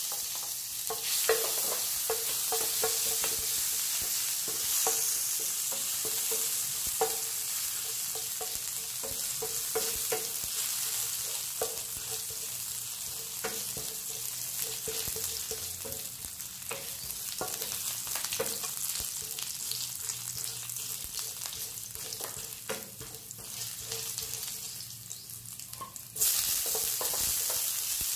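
Chopped garlic sizzling in hot oil in a pan, stirred now and then with a wooden spoon that gives small scrapes and clicks. Near the end the sizzle suddenly grows louder.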